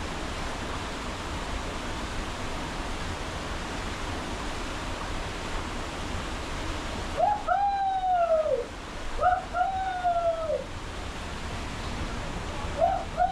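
Waterfall rushing as a steady roar of water. About seven seconds in the roar drops back abruptly, and three long calls follow, each rising then falling in pitch.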